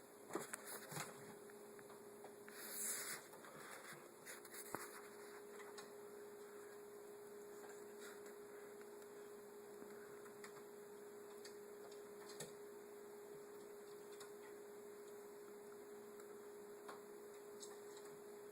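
Faint, steady electrical hum at one even pitch, with a few soft clicks and a brief rustle in the first five seconds.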